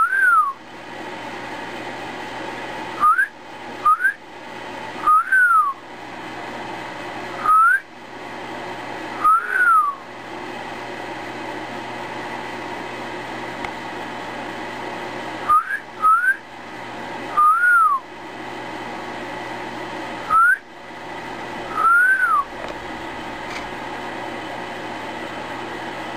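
A person whistling short notes: quick upward slides and rising-and-falling notes, in small groups spaced a few seconds apart, over a steady background hiss.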